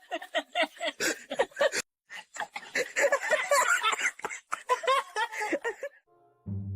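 A person laughing hard in quick, repeated breathy bursts. A brass music sting comes in near the end.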